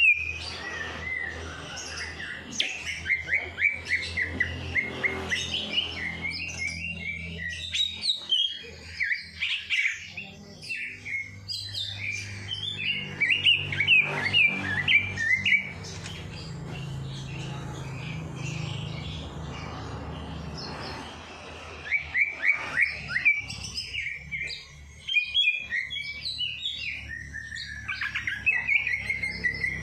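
Songbirds singing in rapid bursts of high chirps and short trills, with a lull of several seconds midway before the singing picks up again.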